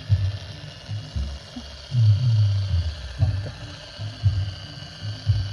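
RC mini tractor's small electric motor and gearbox whirring in short, uneven pulses, with a longer run about two seconds in. A faint steady high tone runs behind.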